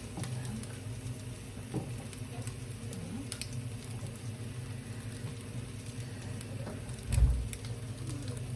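Syrniki (cottage-cheese pancakes) sizzling as they fry in a pan, with a few light clicks and a short low thump about seven seconds in.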